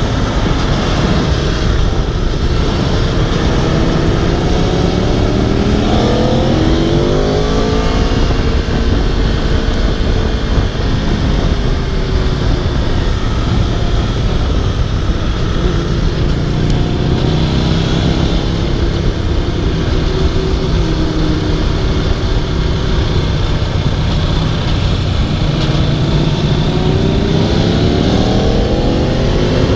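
Aprilia RSV4's V4 engine pulling hard on track. Its pitch climbs through the revs about six seconds in, drops back and holds through the middle, then climbs again near the end, all under heavy wind rush.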